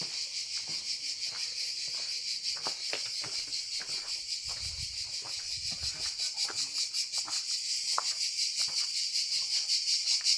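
Chorus of insects shrilling in a steady, rapidly pulsing high-pitched drone, growing louder near the end.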